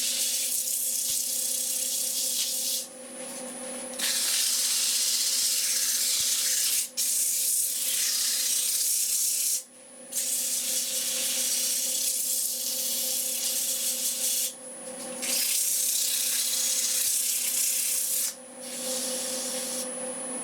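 120-grit sandpaper held against a workpiece spinning on a lathe: a steady hiss, broken about five times by brief pauses when the paper is lifted off. Under it runs the lathe's steady motor hum.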